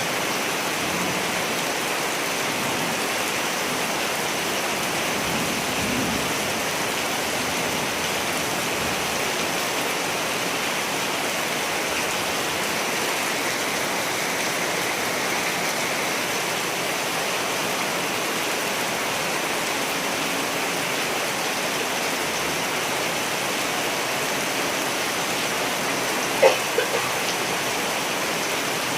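Steady rain falling, an even hiss with no break. A few sharp clicks sound briefly near the end.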